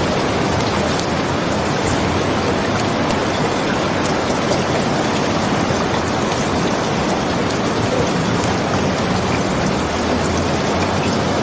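Steady rainfall, a dense even hiss with faint light ticks of drops mixed in.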